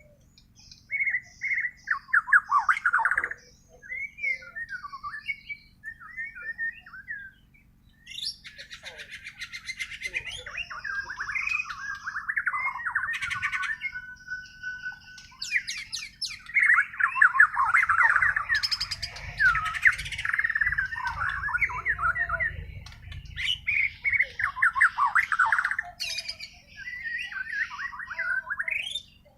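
A white-rumped shama (Bornean murai) in full song: varied, rapidly changing whistled and chattering phrases, a few short phrases with pauses at first, then dense and nearly continuous from about a third of the way in, with a few sharp clicks among the notes.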